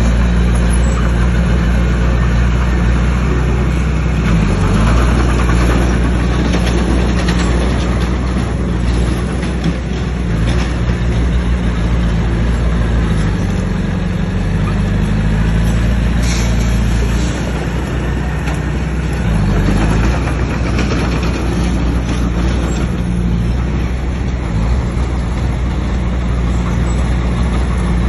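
Bulldozer's diesel engine running hard under load while pushing stone, its pitch dipping and recovering a few times as the load comes on. Rocks and steel tracks clatter now and then.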